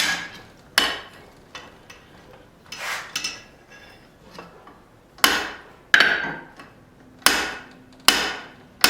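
Hand hammer blows on hot steel over an anvil, each strike ringing briefly. A few strong blows, then lighter taps, then a steadier run of five or so heavy strikes near the end.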